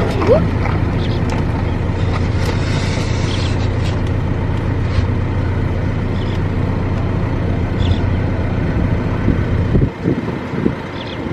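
Car engine running with an even low hum, heard from inside the car; the hum drops away about ten seconds in.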